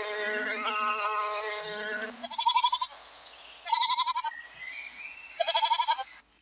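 Goat bleating three times, about a second and a half apart, each call short and quavering. Before the bleats, a long held animal call fades out about two seconds in.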